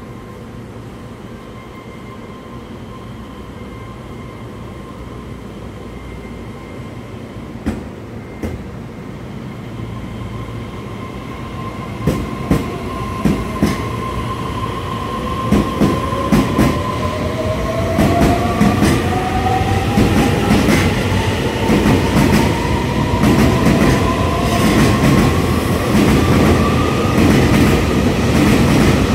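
Electric train pulling away and accelerating: its motor whine rises steadily in pitch while the running noise builds, and wheel clicks over rail joints start about twelve seconds in and come more often as it gathers speed.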